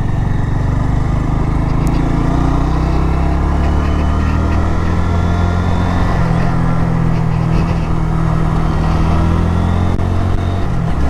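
Honda MSX125SF's 125 cc air-cooled single-cylinder four-stroke engine running steadily at road speed, heard from the bike with wind noise over the microphone. The engine note shifts about six seconds in and dips briefly near the end.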